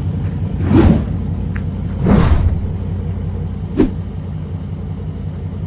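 Straight-piped 392 Scat Pack Charger's 6.4-litre HEMI V8 idling with a steady, deep exhaust rumble. Three brief louder bursts break in, about one, two and four seconds in.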